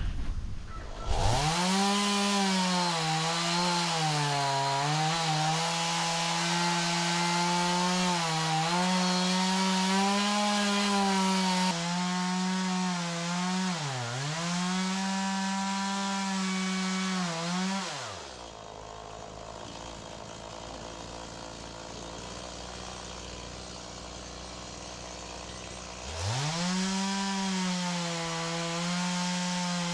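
Stihl chainsaw cutting through oak rounds: it revs to full throttle about a second in, its pitch sagging and recovering as the chain bites, with one deep dip around the middle. It drops back to idle after about 18 s, then revs up again for another cut in the last few seconds.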